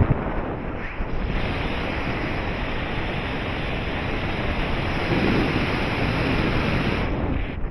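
Steady rush of airflow buffeting the microphone in flight under a paraglider, a loud even roar heaviest in the low end.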